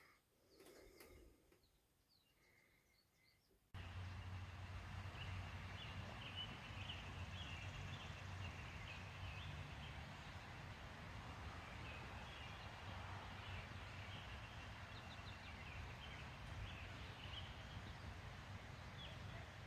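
Faint birdsong, many short chirps, over a steady low outdoor rumble. It starts suddenly a few seconds in, after near silence.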